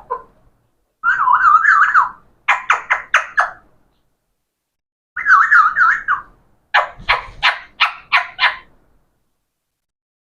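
Pet talking parrot vocalizing twice in the same pattern: a wavering, trilling whistle about a second long, then a quick run of short, sharp calls.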